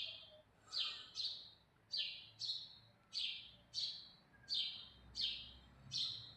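A bird chirping repeatedly, about two short calls a second, each call sliding down in pitch.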